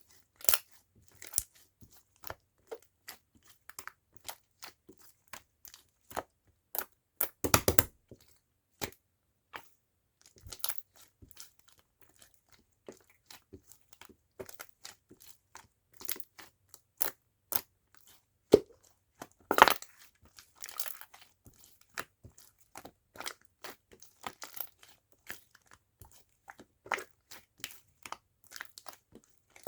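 Hands playing with slime: an irregular run of sharp clicks and pops, with two longer, louder crunches, one about a quarter of the way in and one about two-thirds through.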